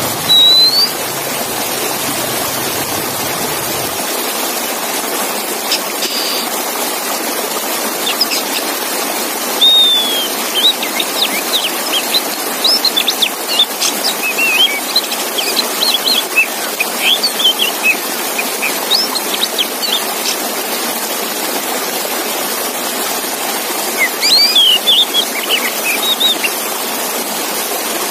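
Male oriental magpie-robin (kacer) song: rapid whistled chirps and short glides in spells, one brief call at the start, a long busy burst in the middle and another near the end, over a steady rushing hiss.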